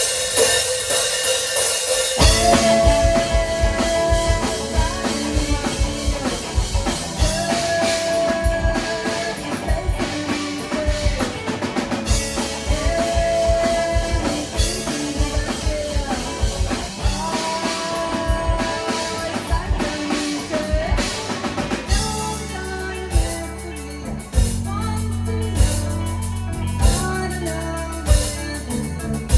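A live rock band plays a song with a full drum kit. A held melodic line repeats over the drums, and about 22 s in the arrangement shifts to heavier, sustained bass with sparser hits.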